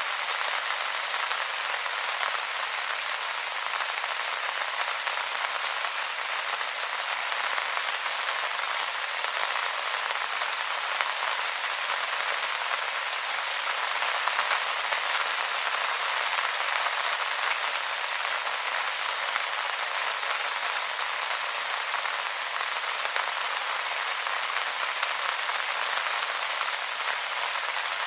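Steady rain falling on wet leaves: an even hiss of many small drops pattering, with no low rumble.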